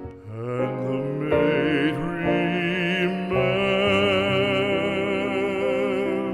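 Classical vocal music: a trained singing voice holding long notes with vibrato over instrumental accompaniment.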